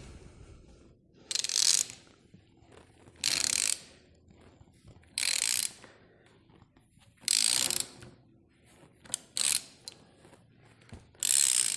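Socket wrench ratchet clicking in five short strokes about two seconds apart, with a couple of single clicks between them, as it turns the screw of a crankshaft gear puller to draw the helical gear off a motorcycle crankshaft.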